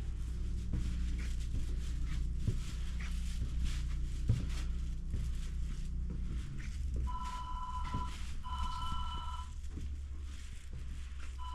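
A phone ringing with an electronic ringer: two rings of about a second each, close together about seven seconds in, and a third beginning at the very end. Before them there are only a steady low hum and a few light clicks and steps.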